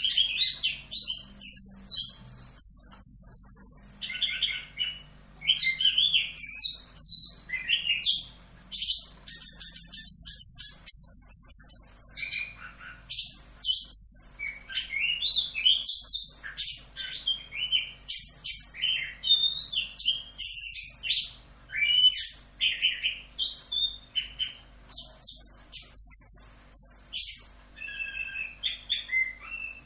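Chestnut-capped thrush (anis kembang) singing a long, unbroken run of rapid, varied whistled phrases with only brief pauses between bursts: the continuous rolling song ('ngerol') prized by bird keepers.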